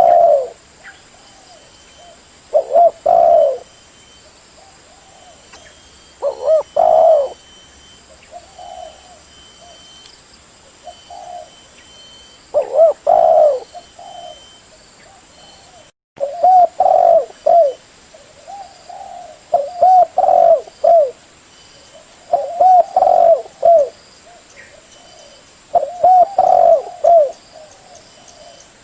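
Spotted doves cooing: phrases of low coos repeat every few seconds, with fainter coos between them. The sound cuts out for a moment just past halfway.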